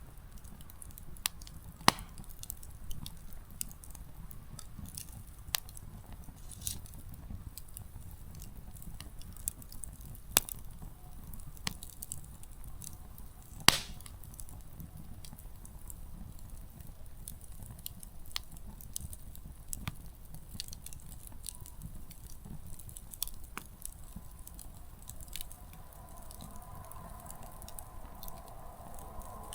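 Small wood campfire crackling, with scattered sharp pops from the burning firewood over a low rumble of the flames; three louder snaps stand out, about two seconds in, about ten seconds in and near the middle. A faint steady hum comes in near the end.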